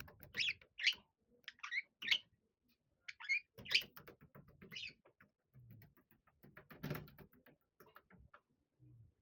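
Budgerigars giving short, scattered chirps through the first five seconds. Between them come soft rustling and knocking from the birds moving in a play tunnel, with a louder rustle about seven seconds in.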